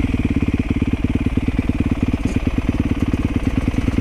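Motorcycle engine idling steadily, its firing pulses coming rapidly and evenly.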